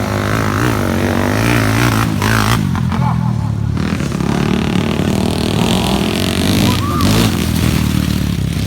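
Dirt bike engines running and revving, with voices over them in the first couple of seconds.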